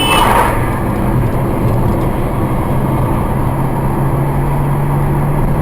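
Vehicle running: a steady low engine hum under road noise, with a brief rush of noise just after the start.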